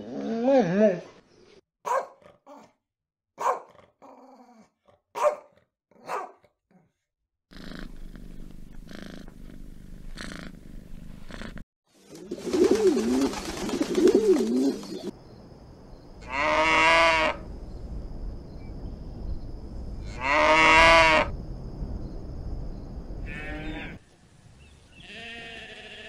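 A run of short animal recordings: wolf pups whimpering at the start, feral pigeons cooing amid wing flaps about halfway in, two loud long animal calls a few seconds apart, and a faint sheep bleat near the end.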